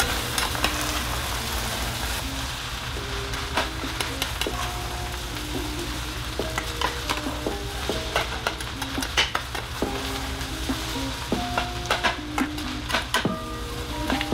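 Fried rice sizzling in a stainless steel pan while a metal spatula folds it, with frequent sharp clicks and scrapes of the spatula against the pan.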